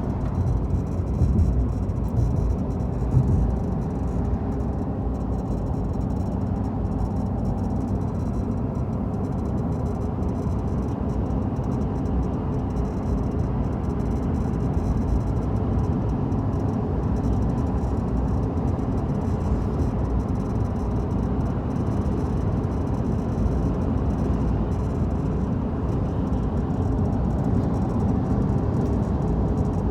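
A rattling, buzzing noise over a steady low running noise, a few seconds louder near the start. The rattle had been corrected once before and has come back.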